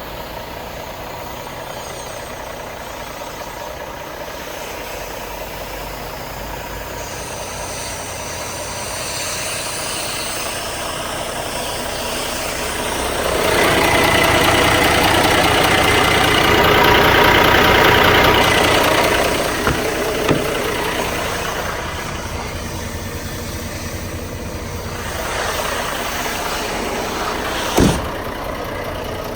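Renault T440 truck's six-cylinder diesel engine running at idle. It grows louder for several seconds in the middle. There is a single sharp knock near the end.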